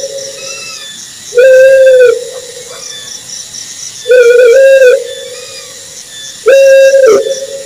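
Owl calling: a loud, steady-pitched hooting note of under a second, repeated three times about every two and a half seconds, with fainter, higher answering notes in between and a steady hiss behind.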